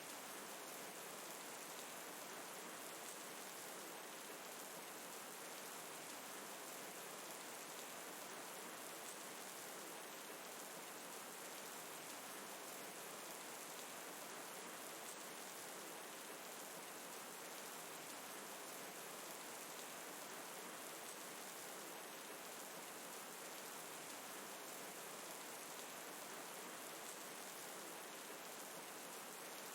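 Gentle, steady rain falling: an even hiss with no breaks.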